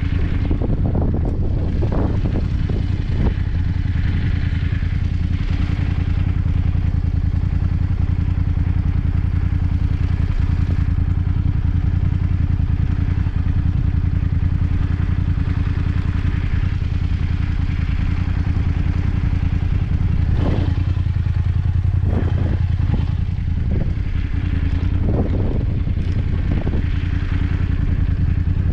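BMW F850GS parallel-twin motorcycle engine running at steady, unchanging revs. Brief knocks and rattles come in the first few seconds and again about twenty seconds in.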